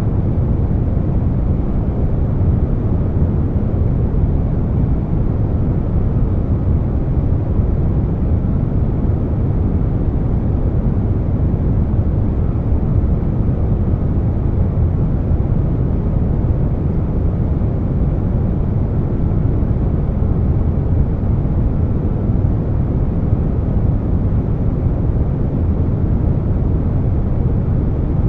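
Air conditioner noise mixed with brown noise: a steady, even low rumble and hiss with no changes.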